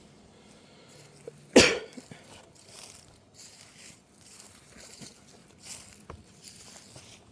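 Handling noise from a camera carried unintentionally while walking: repeated soft rustling and rubbing, with one loud, short sound about a second and a half in.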